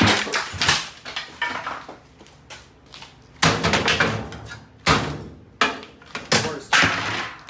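A crowbar striking the plastic agitator of a top-load washing machine: about seven hard, irregularly spaced blows, each with a short ringing tail.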